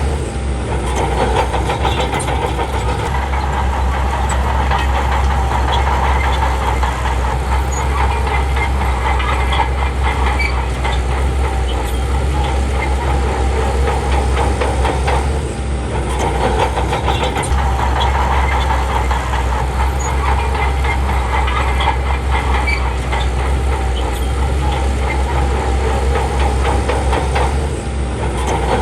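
Heavy diesel engine of earthmoving machinery running steadily with a rapid firing pulse and a deep rumble, with brief breaks about halfway through and near the end.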